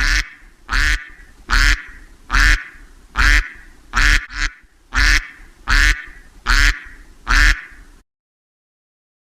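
An animal calling over and over: about ten loud calls evenly spaced a little under a second apart, stopping about a second before the end.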